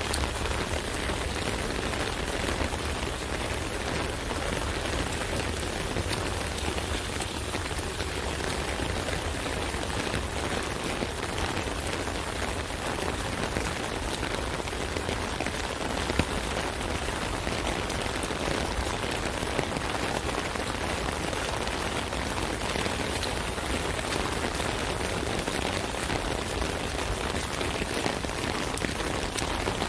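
Steady rain pattering on an umbrella canopy, a dense even rush of drops with occasional louder single drops.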